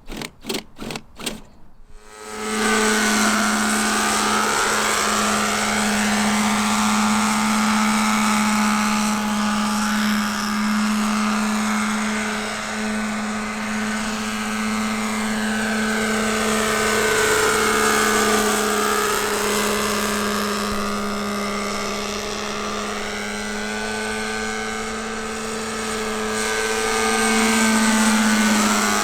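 Thunder Tiger Raptor 50 RC helicopter in flight: its nitro glow engine and rotor make a loud, steady drone, with a higher whine that sweeps up and down as it moves about. A few quick clicks come just before the drone sets in, about two seconds in.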